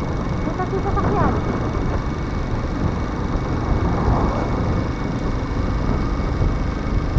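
Steady rush of wind and road noise from a moving motorcycle, with faint voices briefly about a second in and again around four seconds in.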